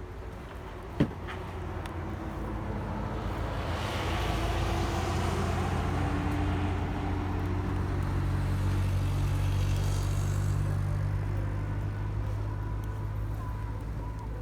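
A motor vehicle's engine running steadily, growing louder over several seconds and then slowly fading as it passes. A single sharp click comes about a second in.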